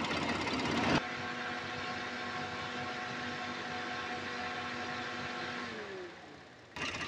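Turbocharged engine of a 2016 Ford Explorer running with a turbo hose pulled off, which causes its underboost condition and lack of power. About a second in, the sound changes abruptly to a steady, even hum at raised revs. Near the end the pitch falls away and the sound fades, then the rougher running sound returns.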